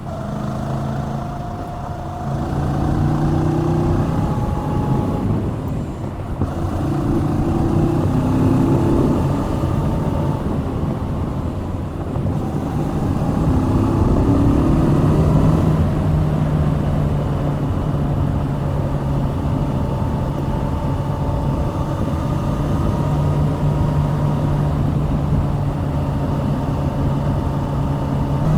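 Kawasaki Z650's 649 cc liquid-cooled parallel-twin engine under way: it revs up in pitch three times in the first half as the bike accelerates through the gears, then holds a steady pitch at constant speed for the second half.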